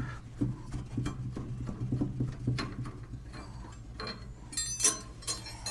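Ford 550 backhoe's diesel engine idling low and steady, with scattered metallic clicks and a short clatter of clinks near the end.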